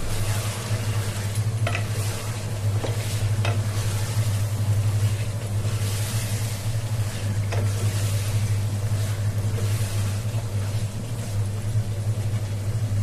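Chicken pieces sizzling in oil and spices in a pot while a wooden spatula stirs them, with a few knocks of the spatula against the pot. The meat is being braised in its own oil without water. A steady low hum runs underneath.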